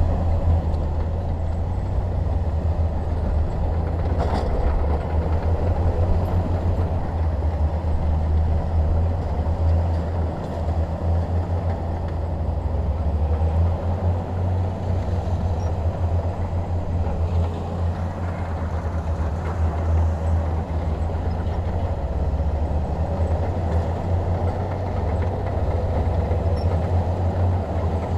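Bulldozer's diesel engine running steadily with a deep, continuous rumble.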